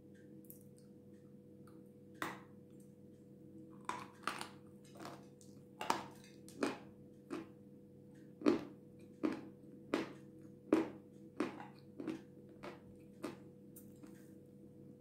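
Close-up crunching and chewing of a dry, powdery white lump of Jasmin edible earth, bitten off and ground between the teeth. The crunches start about two seconds in and come roughly every half to two-thirds of a second.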